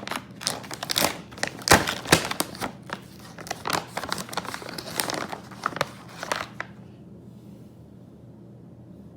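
Plastic treat packaging crinkling as it is handled, a dense run of sharp crackles that stops about two-thirds of the way through.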